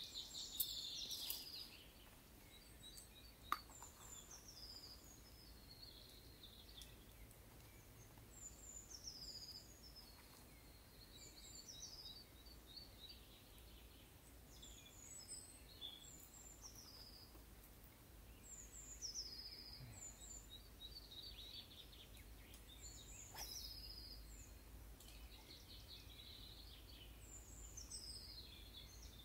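Faint songbird singing, one bird repeating a short high phrase that slides downward every few seconds, with a few short sharp clicks.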